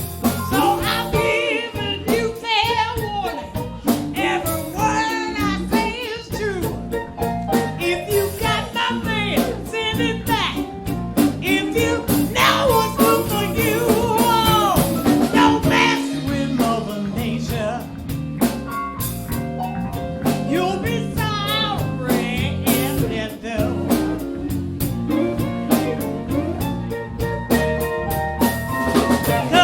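A live band of keyboards, drums, bass and guitar playing, with a lead vocalist singing over a steady drum beat; the sung notes carry a wide vibrato.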